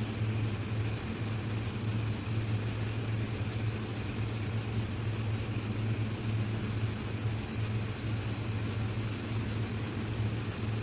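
An engine idling with a steady, unchanging low hum.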